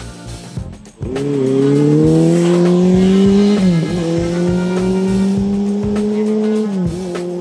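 Honda CB400Four's air-cooled inline-four engine through a Yoshimura short exhaust, pulling hard: about a second in the engine note comes in loud and climbs, dips at a gear change midway and climbs again, then drops near the end. Music with a drumbeat plays under it.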